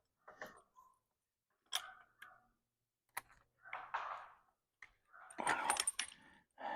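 Scattered sharp clicks and knocks from handling tools and strut parts, with short rustling noises between them, loudest near the end.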